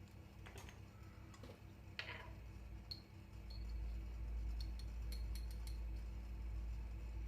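Scattered light clicks and clinks of small hard objects being handled, with a quick run of clicks near the middle, over a low steady hum that comes in about halfway through.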